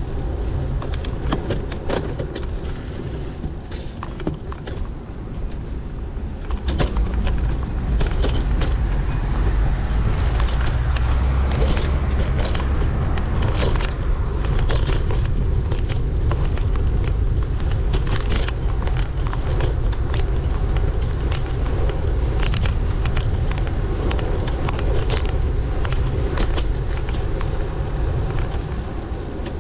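Riding noise from a bicycle in city traffic: a steady low rumble of wind and road with frequent small clicks and rattles, getting louder about seven seconds in.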